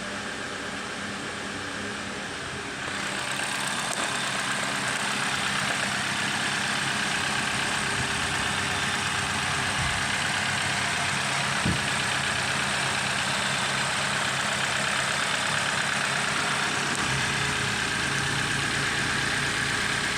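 BMW X1 engine running steadily at idle, a little louder from about three seconds in.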